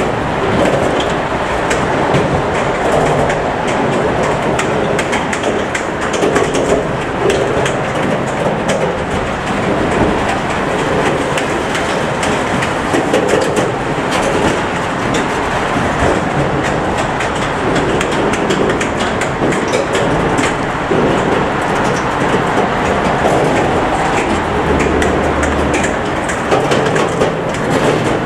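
Freight train of DB bogie hopper wagons rolling past close by: a steady loud rumble of wheels on rail, with quick repeated clicks as the wheels pass over the rail joints.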